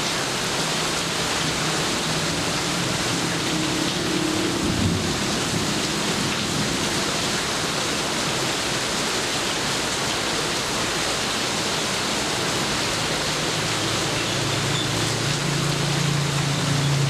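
Rain falling steadily, an even hiss. A low hum comes in near the end.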